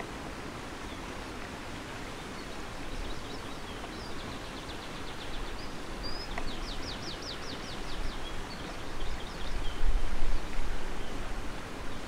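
A small bird sings two quick, high trills of rapid repeated notes, about four to eight seconds in, over a steady rushing hiss. Low rumbles of wind on the microphone come near the end.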